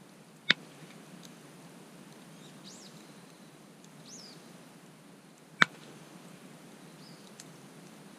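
Campfire wood popping: two sharp loud cracks about five seconds apart, with a few faint ticks. A bird gives three short chirps in between.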